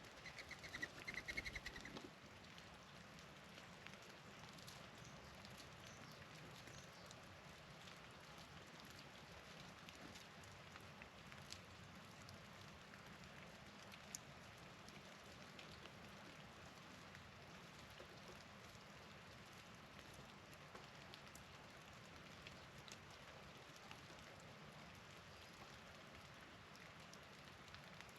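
A bird calls a few short notes in the first two seconds, then only a faint steady patter of falling wet snow with scattered light ticks.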